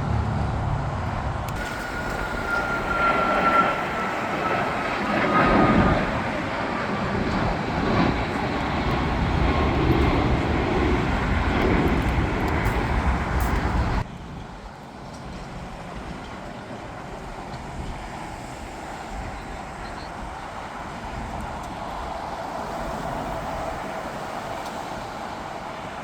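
Jet airliner engines passing close, a loud rushing noise with a whine that falls slowly in pitch. About halfway through it cuts off abruptly to a quieter, steady jet noise.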